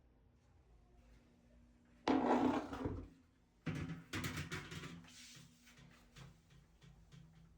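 Two loud bursts of clattering and scraping about a second and a half apart, then lighter knocks that fade: washing machine parts being handled and moved during disassembly.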